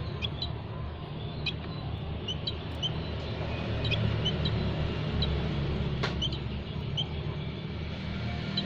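Small songbirds giving short, high chirps at irregular intervals over a steady low rumble, with one sharp click about six seconds in.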